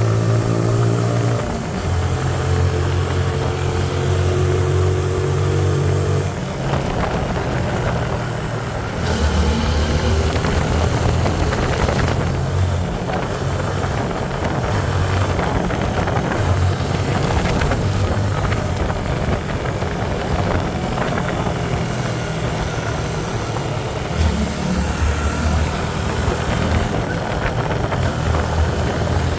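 Hyosung Aquila 125's V-twin engine running while the motorcycle is ridden, its note stepping up and down several times, under a steady rushing noise from the ride.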